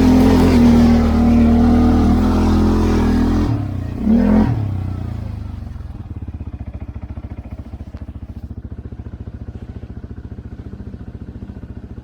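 CFMoto 520L ATV engine running on the throttle with a rush of wind noise for the first few seconds. It gives one short rev about four seconds in, then drops back to a steady, evenly pulsing idle.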